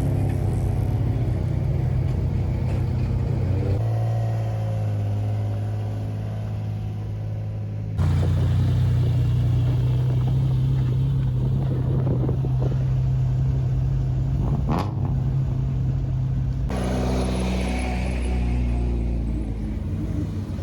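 Porsche 996 rally car's flat-six engine running at high revs, heard in several clips joined by abrupt cuts, with one short sharp click or knock about 15 seconds in.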